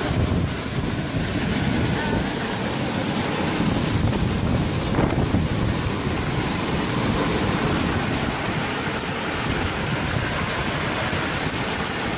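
Steady rushing noise of wind and water in a storm, with wind buffeting the microphone.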